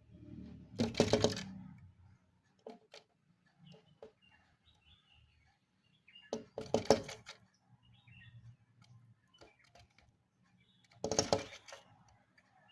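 A bird pecking rapidly at window glass in three bursts of quick taps, each about a second long, near the start, in the middle and near the end. Faint bird chirps come between the bursts.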